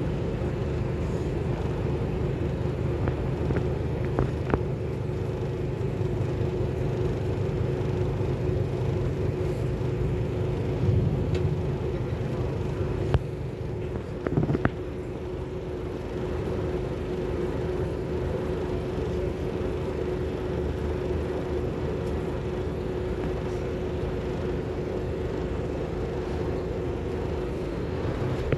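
A Scania K280UB4 city bus heard from inside while it drives: steady engine and road rumble with a constant hum. A few short knocks and rattles come about 11 to 15 seconds in.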